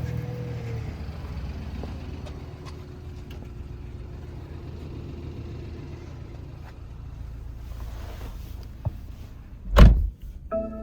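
BMW X3 xDrive35i's turbocharged inline-six idling after a cold start; its fast idle drops to a lower, steady idle about a second in. Near the end comes a click, then a heavy thump, the loudest sound, followed by a short chime-like tone.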